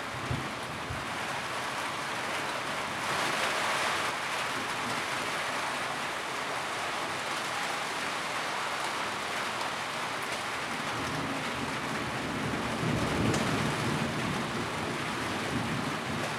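Rain pattering steadily on a tin roof, an even hiss of drops. It swells briefly about three seconds in, and a low rumble rises under it in the latter part.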